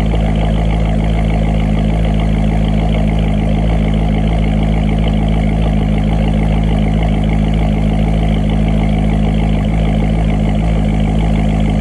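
Grand Sport's engine idling steadily after a cold start, holding an even pitch with no revs.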